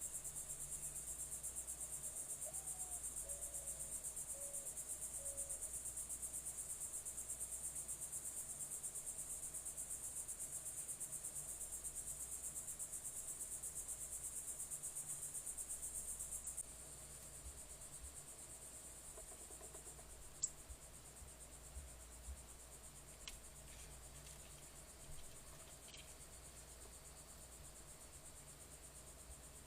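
Insect chorus: a steady, high-pitched pulsing trill that drops abruptly to a quieter level about two thirds of the way through, with a few faint short calls and clicks.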